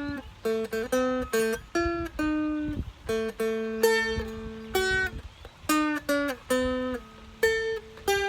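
A Seagull Merlin, a dulcimer-style fretted string instrument, picked note by note in a simple tune, with some quick notes and some held longer over a sustained low note through the middle.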